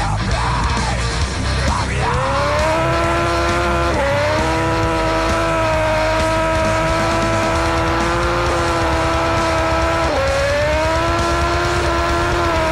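A motorcycle engine climbs in revs about two seconds in and is held at steady high revs, dipping briefly and climbing again twice, over loud rock music.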